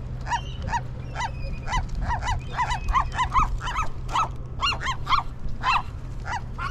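A group of gulls calling over scraps of food: a rapid, overlapping run of short, rising-and-falling calls, several a second. A steady low hum runs underneath.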